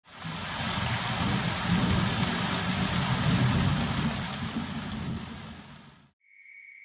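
Heavy rain falling with a low rumble under it, fading in at the start and fading out after about six seconds. A faint, steady high-pitched tone follows near the end.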